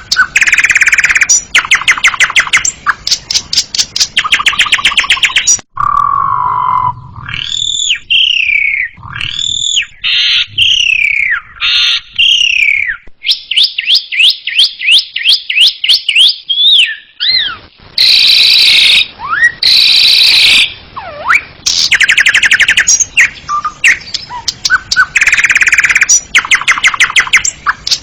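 Asian pied starling (jalak suren) singing loudly: a long, varied song of fast rattling trills, slurred whistles that rise and fall, and quick runs of repeated notes.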